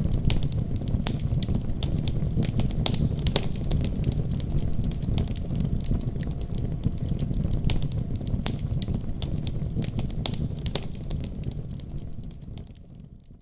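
Wood fire burning in a fireplace: a steady low rumble of flames with frequent sharp crackles and pops from the burning wood, fading out near the end.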